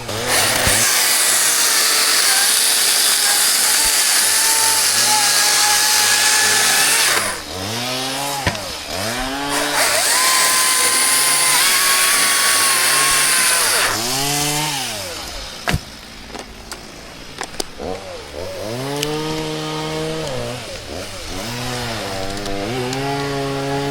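Chainsaw cutting birch wood at full throttle twice, about seven seconds and then about four seconds. Between and after the cuts it falls back to idle with throttle blips. A few sharp knocks come around two-thirds of the way through.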